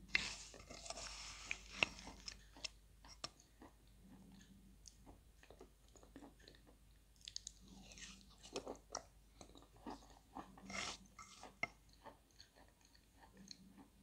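Close-miked chewing and wet mouth sounds of a person eating chalk paste off a wooden spoon, with many small sharp clicks and a few louder clusters.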